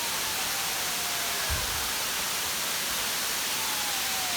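Steady hissing noise, strongest in the high range, with a soft low thump about a second and a half in.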